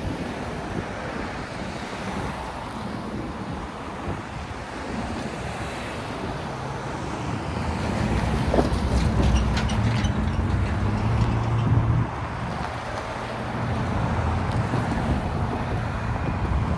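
Wind buffeting the microphone over a low vehicle rumble. About halfway in, a deeper engine hum grows louder and holds for a few seconds, then eases off.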